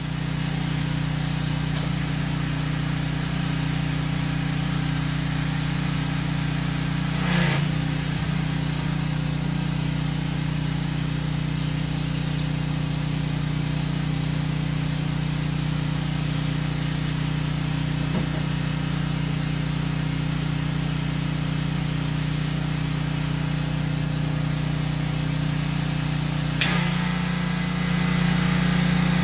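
A motor running steadily with a constant low hum. Near the end it steps up slightly in pitch and loudness.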